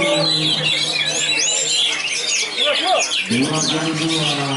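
Oriental magpie-robins (kacer) singing over one another in a dense stream of quick, varied whistles and chirps. A man's drawn-out voice sounds beneath them at the start and again from about three seconds in.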